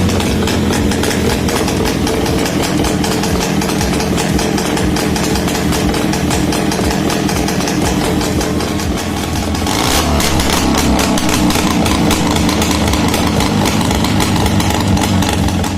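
Velorex 16/350's Jawa 350 two-stroke twin engine running on test at a steady idle; about ten seconds in it picks up speed and runs faster and louder.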